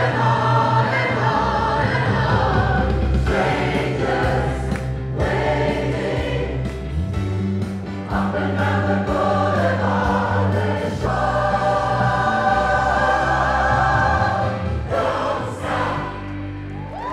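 Choir singing a pop classic in full voice over instrumental accompaniment with a steady bass line.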